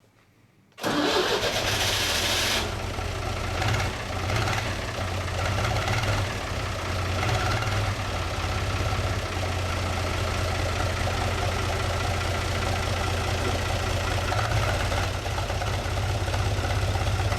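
U445 DT tractor's diesel engine starting up about a second in, then running steadily.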